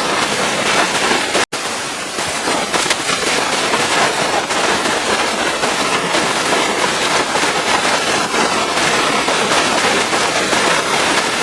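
High-pressure water jet from a pressure washer spraying against a vehicle's surfaces: a steady, crackling hiss with a momentary cut to silence about a second and a half in.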